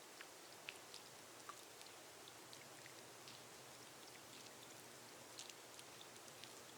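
Faint, steady rain on a glass roof: a soft even hiss with scattered single drops ticking on the glass.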